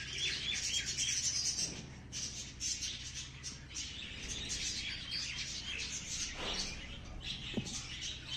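Small birds chirping, with many quick high notes overlapping, several birds at once.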